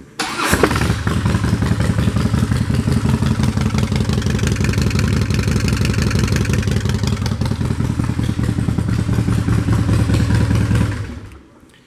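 2007 Harley-Davidson Dyna Screamin' Eagle's 110 cubic inch V-twin running steadily through Vance & Hines drag pipes, with a loud, open exhaust note. It dies away near the end.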